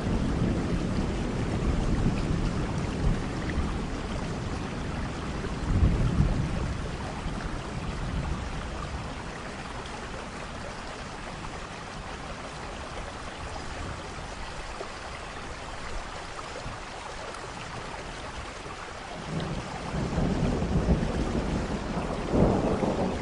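Thunderstorm: steady heavy rain with rolling thunder. A rumble of thunder peaks about six seconds in and dies away, leaving mostly rain, and another roll of thunder builds near the end.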